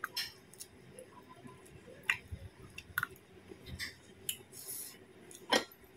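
Quiet eating sounds close to the microphone: a person chewing a mouthful of food eaten by hand, with scattered soft mouth clicks and smacks. The loudest smack comes a little before the end.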